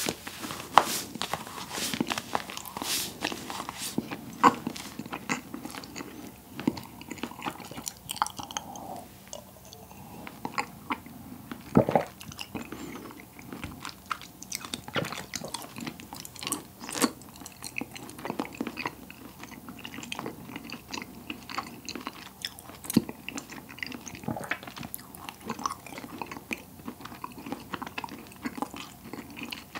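Close-miked mouth sounds of eating a slice of pressed, sliceable cotton candy: biting and chewing, with many short wet clicks and smacks at irregular intervals.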